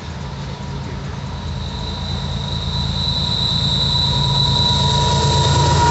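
Loaded freight train approaching behind its diesel locomotives: a low rumble that grows steadily louder, with thin steady high tones above it.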